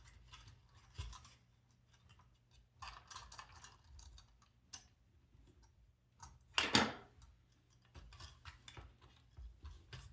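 Small irregular clicks, ticks and rustles of hands handling plastic robot-kit parts and cables while threading wires through frame slots, with one louder rustle about two-thirds of the way through.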